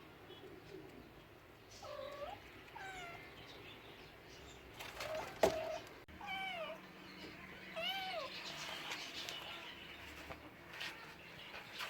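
Domestic cat meowing, about four short meows that rise and fall in pitch, with a sharp louder sound in the middle.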